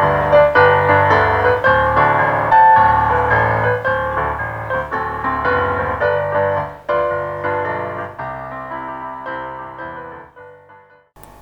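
Piano playing a slow, quiet piece, getting softer toward a last held note that stops shortly before the end.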